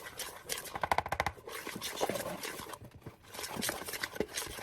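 A spoon or utensil clicking and scraping against a mixing bowl while ingredients are stirred and measured, with a quick run of rapid clinks about a second in.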